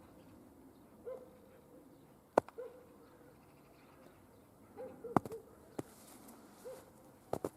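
A dog barking in the distance, short single barks every second or two. A few sharp clicks cut in between, the loudest about two seconds in.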